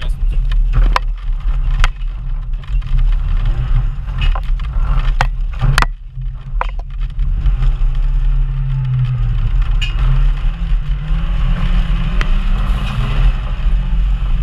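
Off-road 4x4's engine running and revving up and down as it drives a rough dirt track, with several sharp knocks along the way.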